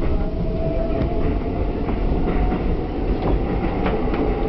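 Electric commuter train running on elevated track, heard from inside the car: a steady low rumble with a few sharp clicks as the wheels pass rail joints, and a faint whine that rises slightly.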